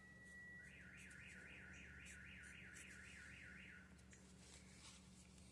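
Faint electronic alarm siren: a steady high tone, then a rapidly repeating rising whoop, about three a second, that stops a little under four seconds in.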